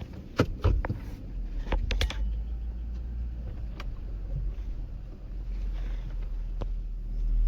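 Car on a rough dirt track heard from inside the cabin: a steady low rumble of engine and tyres, with sharp rattles and knocks as it bounces over the bumps, several close together in the first two seconds and a couple more later.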